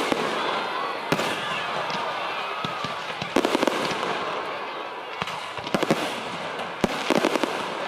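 Aerial fireworks going off in quick clusters of sharp cracks and pops, a burst of crackling every second or two.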